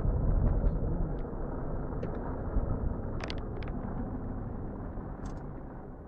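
Low, steady vehicle rumble as picked up by a car dashcam, slowly fading, with a few sharp clicks around the middle.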